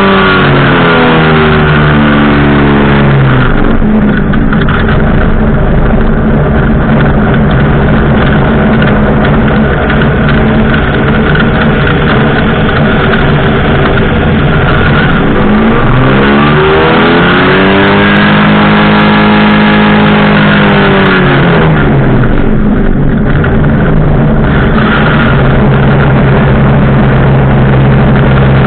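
Powered parachute's engine and propeller running loudly, the pitch dropping as the throttle comes back in the first few seconds, rising again about halfway through, holding for several seconds, then dropping once more.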